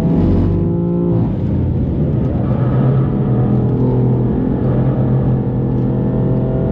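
BMW M4's modified twin-turbo straight-six running at steady, fairly low revs, with a brief change in engine note about a second in.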